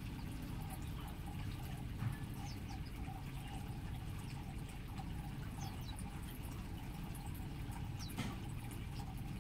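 Small birds chirping faintly now and then, short high falling notes, over a steady low rumble of background noise.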